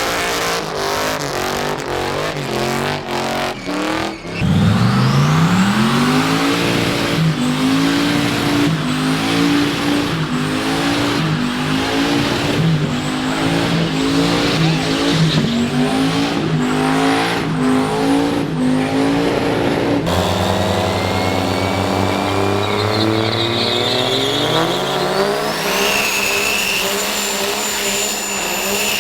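Diesel truck engine revving hard: it climbs sharply about four seconds in, then surges up and down at high revs about once a second. After a cut, an engine winds up steadily and a high whine joins it near the end.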